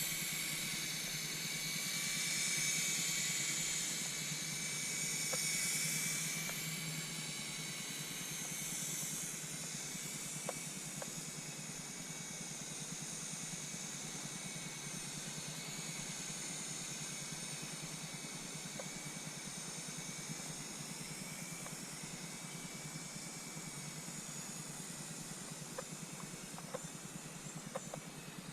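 Syma S107H-E mini RC helicopter's small electric motors and coaxial rotors whirring in flight, a steady high-pitched whine that is louder for the first several seconds and then fainter.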